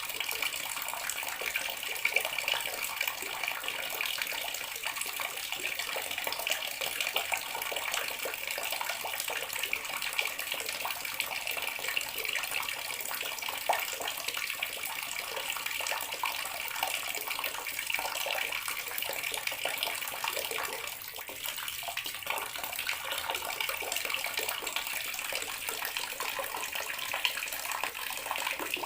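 Bathroom water tap running steadily, its stream splashing into a basin or tub.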